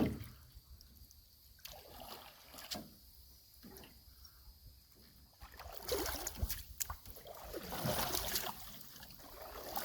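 Water lapping and trickling around a canoe, with scattered light knocks on the hull. The water noise grows louder and more splashy about six seconds in.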